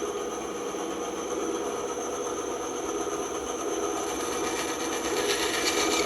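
Band saw running steadily, a continuous motor-and-blade hum; from about four seconds in a brighter hiss rises as the blade cuts into wood.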